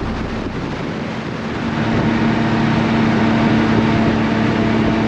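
Car engine and road noise while driving: a steady drone with a low hum that grows louder about two seconds in.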